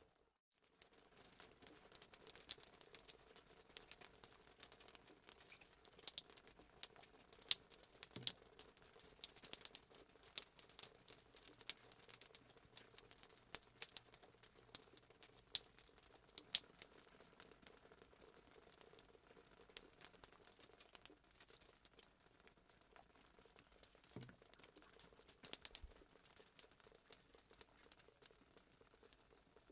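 Wood fire crackling in a fireplace: a faint, dense run of small pops and snaps, with a brief dropout just after the start.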